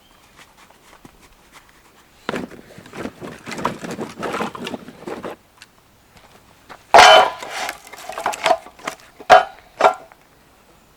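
Handling noises: a few seconds of rustling, then several sharp knocks, some with a brief ringing tone, the loudest about seven seconds in.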